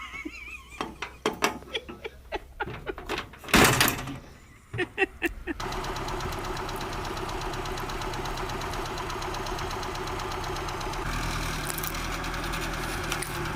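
Scattered clicks and knocks with one loud thump, then an engine starts suddenly about five and a half seconds in and runs steadily at idle.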